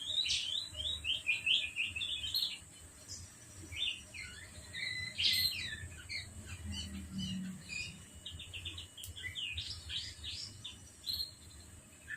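Lovebird chirping in rapid runs of short, high chirps, broken by brief pauses.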